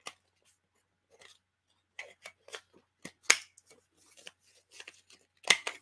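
Handheld corner rounder punch snapping through paper to round off its corners: several short, sharp clicks spaced irregularly, the loudest about three seconds in and just before the end.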